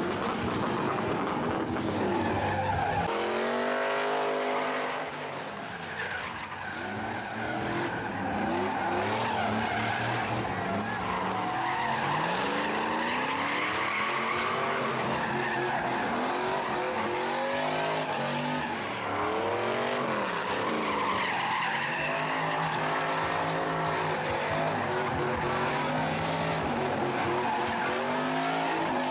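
Car engine revving hard, its pitch sweeping up and down over and over, with tyres skidding on pavement.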